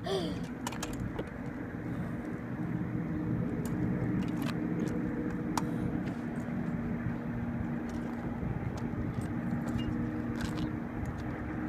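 Razor electric dirt bike being ridden: a steady motor hum over tyre and wind noise, with a few faint clicks.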